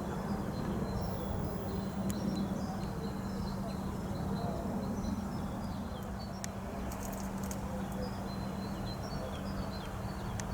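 Quiet railway-station ambience between trains: a steady low hum under a faint background haze, with small birds chirping throughout and a few faint clicks.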